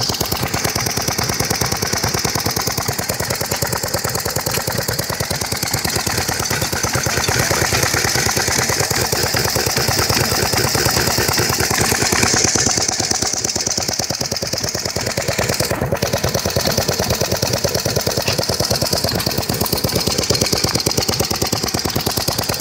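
Homemade Ricardo Dolphin–type two-stroke uniflow engine, built from an air compressor, running steadily with a fast, even beat of firing strokes.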